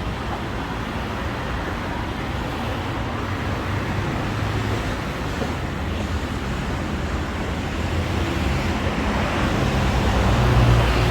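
Steady road traffic noise, with engines running low and steady, swelling toward the end as a vehicle passes close.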